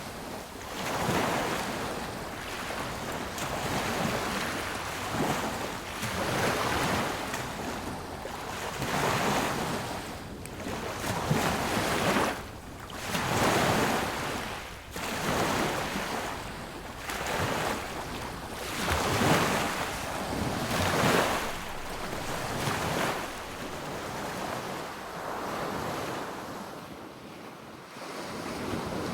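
Sea waves breaking and washing on a beach, surging and receding every couple of seconds, with wind noise on the microphone.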